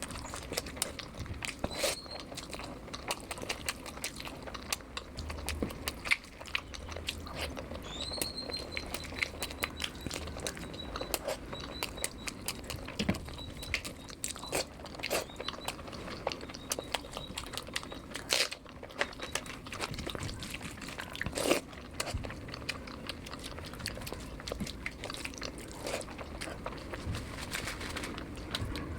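Close-miked eating: chewing and biting with many irregular small clicks and wet smacks, at a steady pace.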